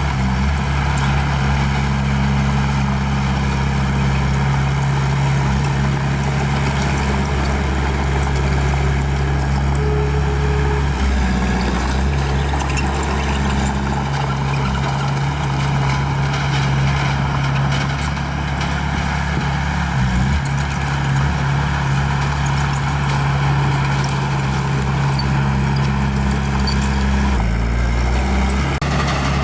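Small bulldozer's diesel engine running steadily as it works, its pitch shifting a few times as the throttle and load change.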